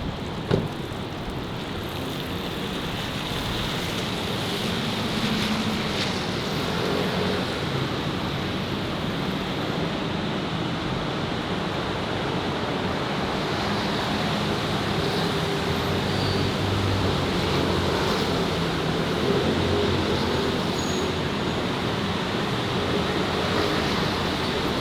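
Steady city road traffic: a continuous wash of passing vehicle noise with faint engine hum underneath and a short click about half a second in.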